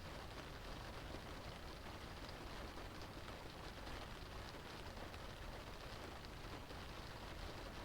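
Steady rain drumming on a car's roof and glass, heard from inside the cabin: a dense patter of fine drops over a low rumble, even throughout.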